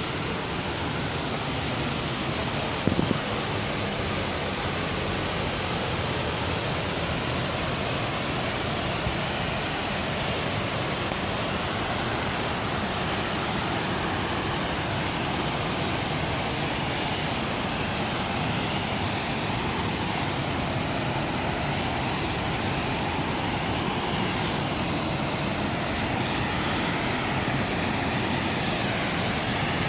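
Waterfall: steady rushing of falling water, with a brief knock about three seconds in.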